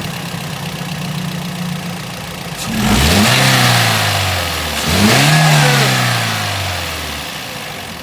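Toyota GLi car engine idling, then revved twice in quick blips, each rise in pitch falling back toward idle. The engine has a sound problem put down to tappet (valve clearance) adjustment.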